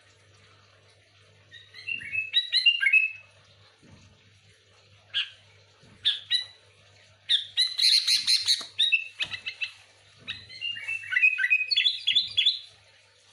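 Sooty-headed bulbul (kutilang) song: bursts of quick, bright chirped and whistled phrases with short pauses between them. The busiest, loudest chatter comes a little past the middle, followed by a run of falling then rising notes near the end.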